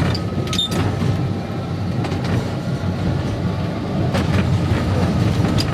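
Electric tram running under power on the third controller notch: a steady rumble of motors and wheels on the track, with a faint steady whine and a few sharp clicks from the wheels.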